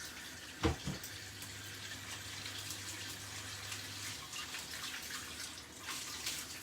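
Kitchen tap running as a knife and chopping board are rinsed under it, with a sharp knock just under a second in and some clatter near the end.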